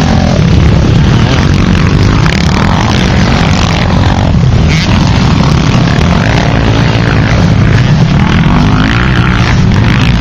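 Motocross motorcycle engines revving hard, their pitch rising and falling again and again through the throttle and gear changes.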